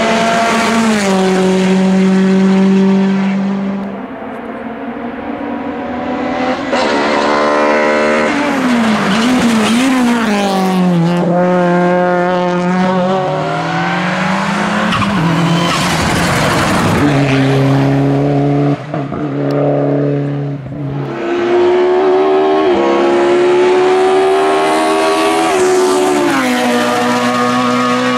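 Hillclimb race car engines at full throttle, revving up and dropping in pitch at each gear change, in a series of passes.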